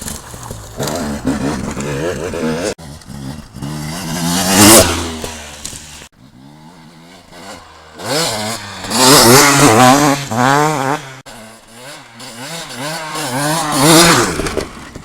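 Motocross motorcycles revving hard as they ride past. Three loud passes, the engine pitch climbing and dropping again and again as the throttle opens and closes.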